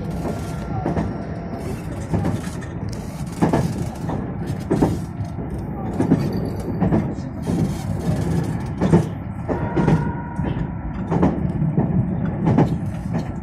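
Meitetsu 2200 series electric train running, heard from inside the car: a steady rumble of wheels on rail with irregular clacks, about one a second, as the wheels pass over rail joints.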